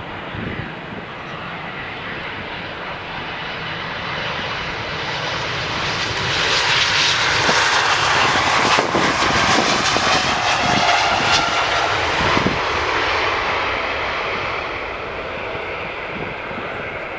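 Jet airliner's engines passing the runway, building to a loud peak about halfway through and then fading away, with wind buffeting the microphone.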